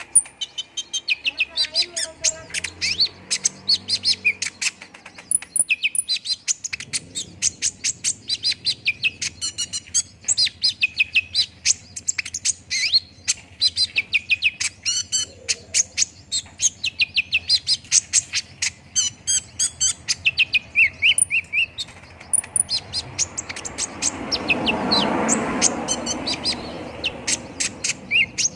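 Kolibri ninja sunbird song: a continuous stream of rapid, high-pitched chirps and twittering trills, the kind of recording played to prompt caged sunbirds to sing. A rushing noise swells and fades near the end.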